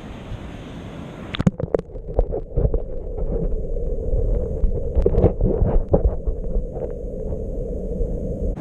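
Wind and surf noise on the microphone. About a second and a half in, the sound turns muffled: a low rumble with scattered knocks and clicks.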